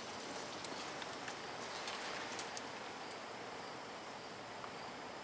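Steady outdoor background noise: an even hiss with a few faint, scattered high clicks.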